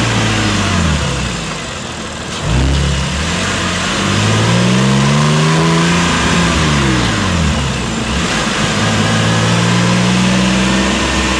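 Porsche 997.2 911's flat-six engine pulling the car in traffic, its revs falling over the first two seconds, climbing again, dropping off once more about six seconds in, then rising and holding steady.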